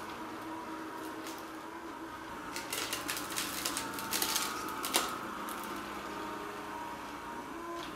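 Kärcher K 55 Plus cordless sweeper running with a steady motorised whir, with a cluster of sharp clicks and crackles from about two and a half to five seconds in.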